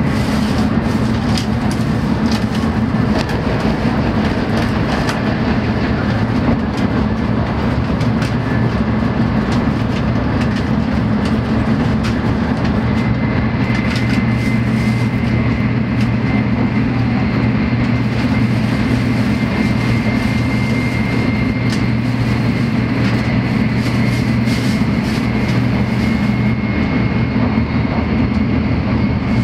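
Inside a Shinkansen car running at speed: a steady, loud rumble of the train on the track, with a faint high whine that rises slightly in pitch partway through.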